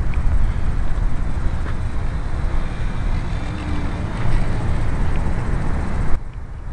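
Gusty wind buffeting the microphone, a steady low rumble that drops away suddenly about six seconds in.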